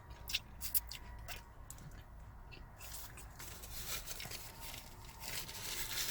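Close-up eating sounds of a fried chicken sandwich being chewed: a few sharp crisp clicks early on, then denser crackling crunches that grow stronger near the end.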